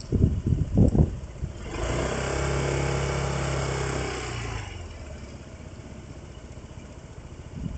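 A motor vehicle engine running at a steady pitch for about three seconds, starting about two seconds in, with gusts of wind buffeting the microphone before it.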